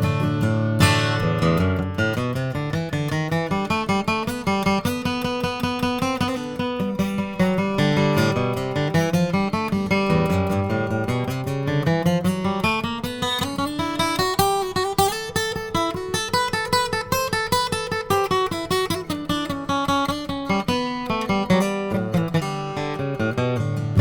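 Yamaha FG830 steel-string acoustic guitar playing an instrumental break of quick picked notes, with a run that climbs in pitch midway and comes back down near the end.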